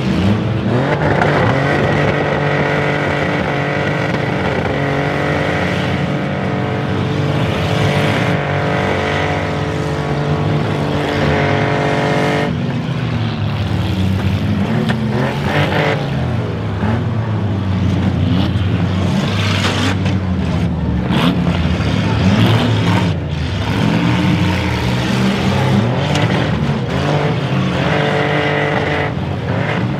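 Demolition derby cars' engines revving and running hard, with short bangs of collisions, mostly in the second half.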